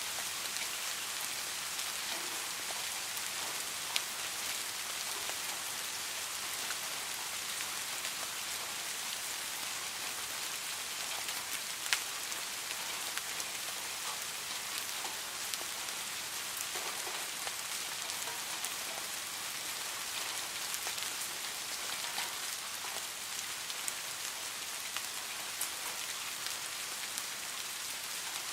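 Steady rain falling on a hard surface, an even hiss with scattered sharper ticks; the two sharpest come about 4 and 12 seconds in.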